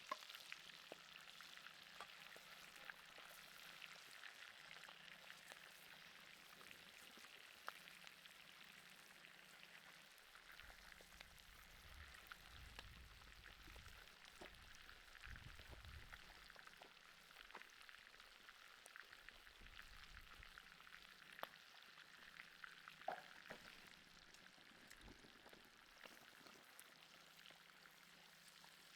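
Faint steady sizzling of beef steak cooking over hot charcoal, with scattered small crackles and pops. A low rumble comes in for several seconds in the middle.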